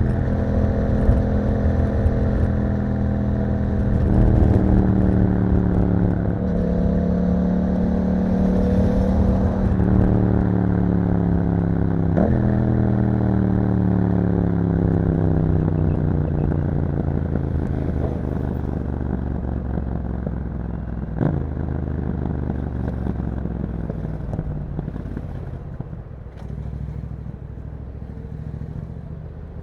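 Yamaha MT-07's parallel-twin engine through an Akrapovic exhaust while riding. The revs climb about four seconds in, with a gear change soon after. The revs then fall slowly for a long stretch as the bike slows, with a couple of sharp clicks, and the engine is quieter near the end.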